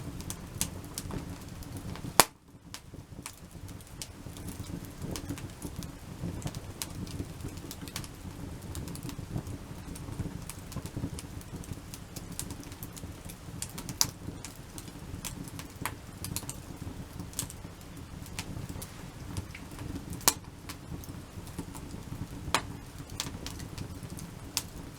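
Wood campfire of stacked logs burning with a steady low rush of flame and frequent irregular crackles. There are several sharp pops, the loudest about two seconds in.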